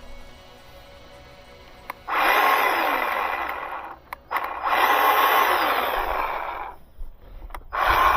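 Bauer 20V cordless electric chainsaw triggered in three bursts of about two seconds each, the motor and chain running up loud and stopping between pulls.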